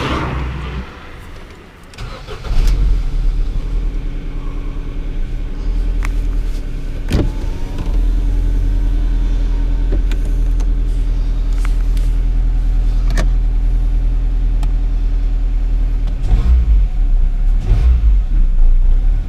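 Ford Focus Mk2 petrol engine starting: it catches about two and a half seconds in and settles into a steady idle, with a few louder swells near the end. It is running smoothly on freshly fitted spark plugs.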